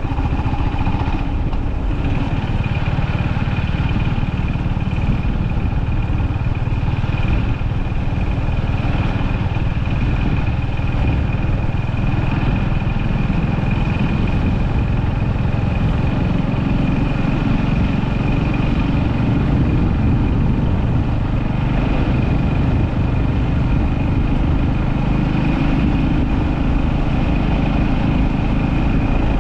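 Honda GB350S's air-cooled single-cylinder engine running steadily at an even speed, a loud low thrum with no revving.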